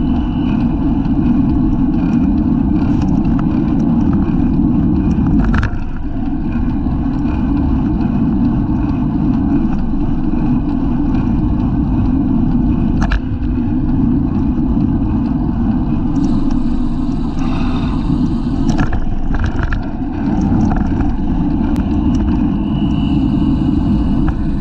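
Wind buffeting the microphone of a camera on a racing bicycle at speed, a loud steady rumble with road noise, broken by a few sharp knocks.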